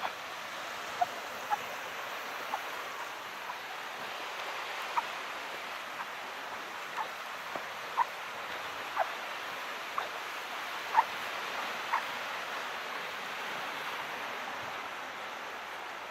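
Calm sea washing steadily, a continuous hiss of water. Short high pips sound over it about once a second, stopping about three-quarters of the way through.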